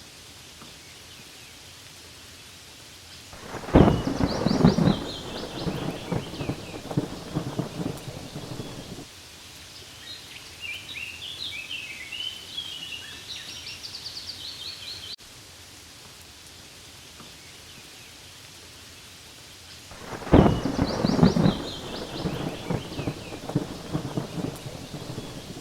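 Steady rain falling on leaves, with two rolls of thunder: one comes in suddenly about four seconds in and rumbles away over about five seconds, and the second comes near the end. Birds chirp in short high bursts between the rumbles.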